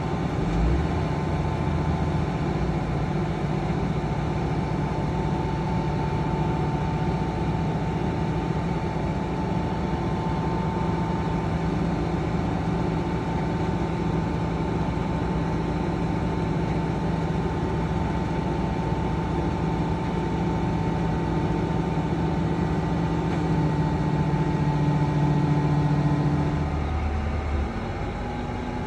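Heavy diesel engines of earth-moving machinery running steadily. About three-quarters of the way through the engine note rises and grows louder for a few seconds, then drops back.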